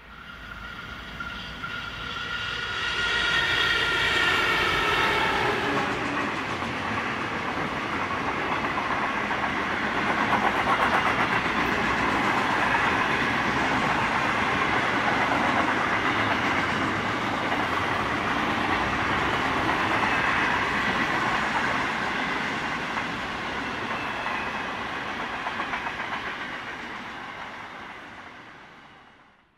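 Freight train passing. A stack of tones falls in pitch over the first few seconds as the diesel locomotive goes by, then the wagons roll past with steady wheel noise and clickety-clack. It fades out near the end.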